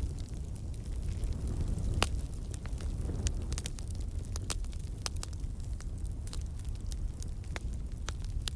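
Wood campfire burning: a steady low rumble of flames with frequent sharp crackles and pops from the logs, one louder pop about two seconds in.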